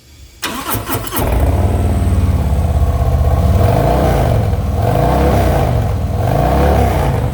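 Harley-Davidson Milwaukee-Eight 117 V-twin with TAB Zombie performance mufflers being started: the starter cranks briefly, the engine catches about a second in, then runs, its pitch rising and falling a few times with throttle blips.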